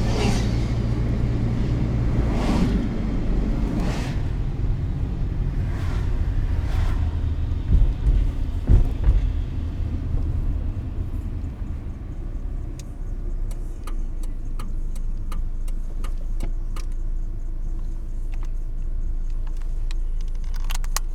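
Car driving, heard from inside the cabin: a steady low rumble of engine and road noise. There are a few loud thumps about eight to nine seconds in, and scattered sharp ticks through the second half.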